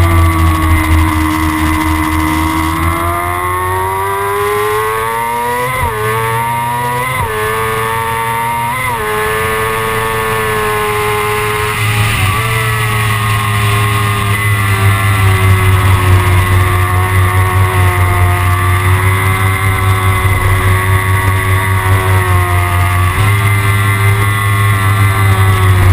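Kawasaki ZX-6R's inline-four engine running under way. Its revs climb over the first few seconds, change pitch quickly several times between about six and twelve seconds in, and then hold fairly steady.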